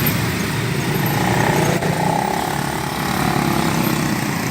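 Engines of motorcycles and cars running in a jammed road, a steady low rumble of traffic, with a faint wavering tone in the middle about a second in that fades out near the end.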